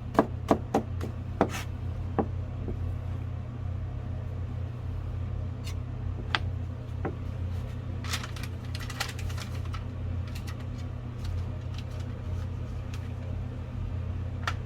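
A kitchen knife chopping on a cutting board, a few quick even strokes about three a second, stopping about two seconds in. After that a steady low hum with scattered light clicks and clatter.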